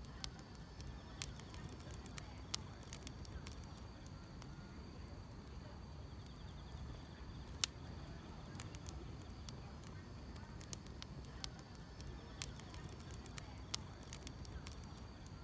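Firewood burning, crackling with sharp irregular pops (the loudest about halfway through) over a low steady rumble, while grass insects such as crickets chirp faintly and steadily.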